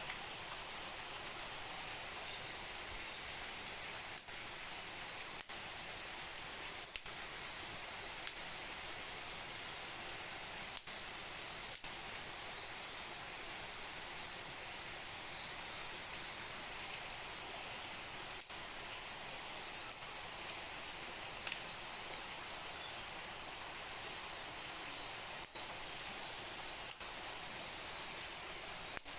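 Forest insects calling in a steady, high-pitched chorus, with a few brief dropouts.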